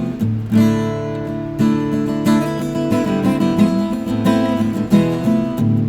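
Acoustic guitar strumming chords in a steady rhythm, an instrumental stretch of a song with no singing.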